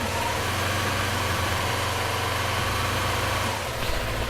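Yamaha R3's parallel-twin engine held at steady raised revs, about 2500 rpm, for a charging-system test, then eased off near the end.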